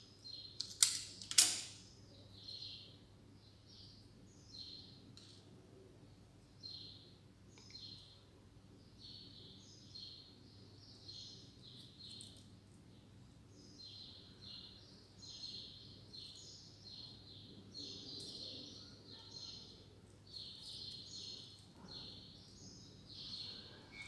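A small bird chirping over and over in short, high notes, with two sharp clicks about a second in.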